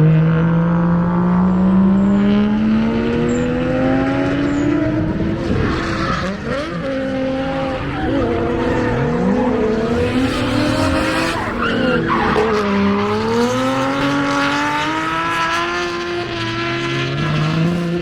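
Drift car's engine on track, climbing in pitch over the first few seconds, then falling and rising again and again through the run, with tyre squeal.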